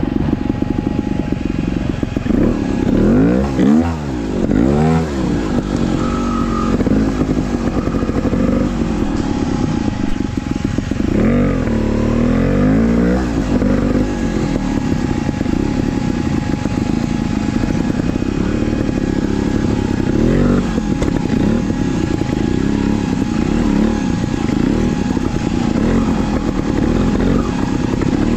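Trials dirt bike engine revving up and down as it is ridden, with quick rising and falling sweeps in pitch, the biggest a few seconds in and again around the middle, over a steady running drone.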